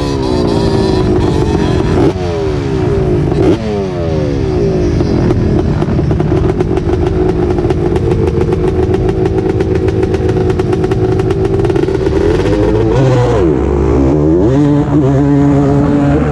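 Off-road racing engine at full throttle, pulling hard through the gears. Its pitch climbs and drops back at three quick upshifts in the first few seconds, then holds high and steady. Near the end it falls away as the throttle is let off, then climbs again.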